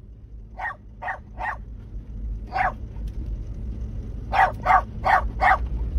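A dog barking in short barks: three in quick succession, a fourth about a second later, then a quick run of four near the end.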